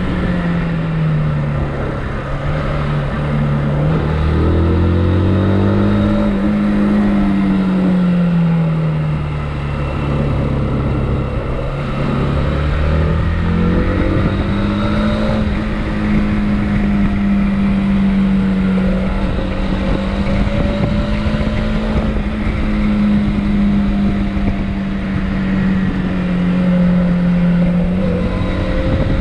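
Motorcycle engine heard on the move: its note falls and rises twice in the first half as the throttle and speed change, then holds a steady pitch while cruising.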